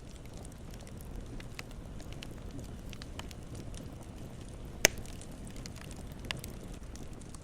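Campfire burning with a steady low rush and scattered crackles, with one loud sharp pop a little under five seconds in and a smaller one about a second and a half later.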